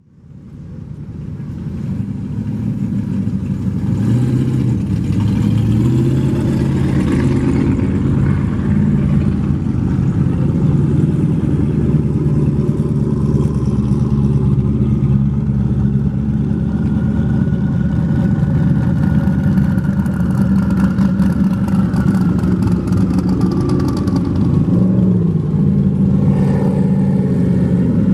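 Muscle car engines running at low revs, the engine note shifting up and down, fading in over the first few seconds.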